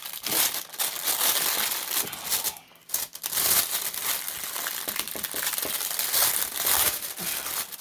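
Protective film being peeled off the sticky adhesive surface of a diamond painting canvas, crackling and crinkling as it comes away, with a short lull about two and a half seconds in.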